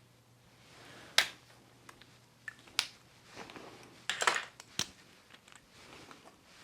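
Sharp clicks and clatters of small plastic cosmetic packaging being handled: one about a second in, another near three seconds, then a quick cluster of clicks around four seconds, with soft rustling between them.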